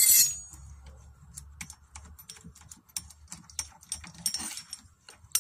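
A tight screw on a fully automatic washing machine's clutch being forced loose with a hand tool: a loud sharp crack at the very start, then a run of irregular metal clicks and taps as it is turned.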